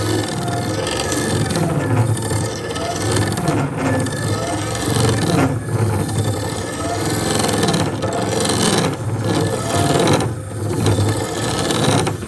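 Power tool working on wood with a steady rasping scrape, broken by a few brief pauses.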